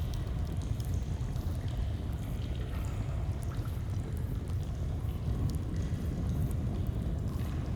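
A flowing stream running steadily, with faint scattered crackles of a campfire over it.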